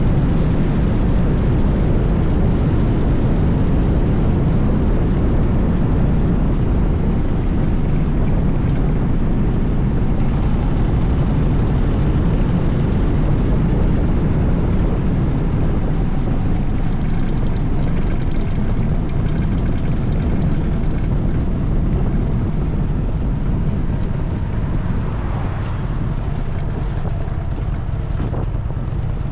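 Harley-Davidson Dyna Super Glide's air-cooled V-twin engine running steadily as the motorcycle is ridden, with a low, deep drone; it eases off a little in the last third.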